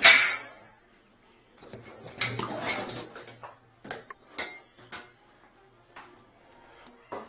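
A loud sharp knock, then a couple of seconds of rattling and scraping over a low hum, then several light scattered clicks and knocks: hard objects being handled during drain-clearing work.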